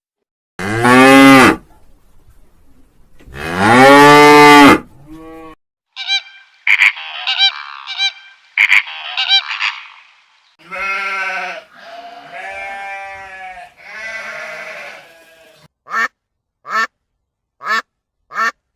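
A sequence of different farm animal calls in turn. First come two long, loud calls that rise and fall in pitch. Then a run of higher honks, then several drawn-out calls, and near the end six short, sharp calls evenly spaced.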